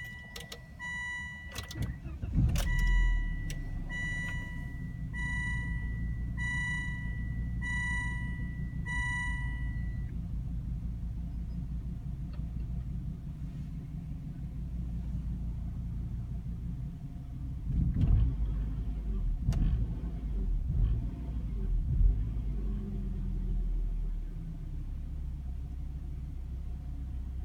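2004 Volvo S60 2.5T's turbocharged inline-five engine starting about two and a half seconds in and running rough, surging up several times in the last third before settling into a steadier idle, while the car's warning chime beeps about once a second for the first ten seconds. The rough cold restart goes with the car's P2188 code, running rich at idle on bank 1.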